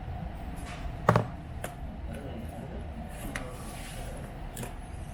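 Handling noise on a repair workbench: one sharp knock about a second in, then a few lighter clicks, over a steady background hum.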